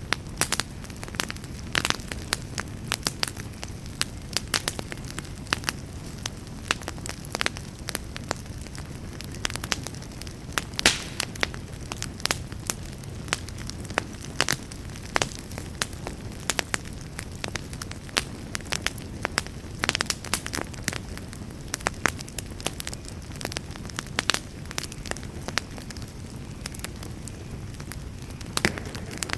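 Wood campfire crackling: irregular sharp pops and snaps, several a second, some louder than others, over a steady low rush.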